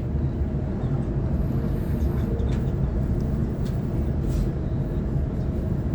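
On-board running noise of a Sydney Trains Waratah electric multiple unit: a steady low rumble with a faint hum and a few light ticks.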